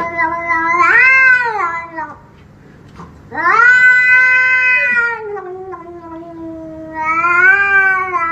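A domestic cat giving three long, drawn-out meows one after another, each rising and then falling in pitch.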